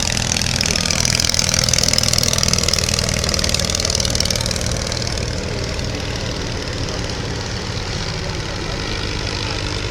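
English Electric Wren ultralight's tiny flat-twin engine running steadily with a rapid pulsing beat as it takes off down the runway. It grows loudest a second or two in, then eases off as it draws away.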